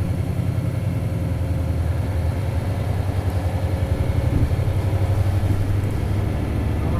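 Isuzu 8PE1-S V8 diesel of an Isuzu Cubic city bus running, heard from inside the bus as a steady low engine drone.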